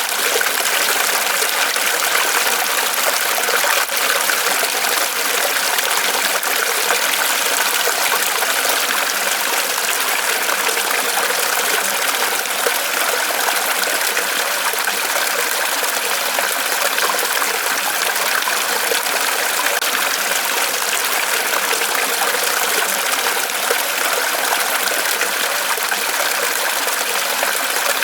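Small waterfall pouring from a tree trunk: a steady, continuous splashing and trickling.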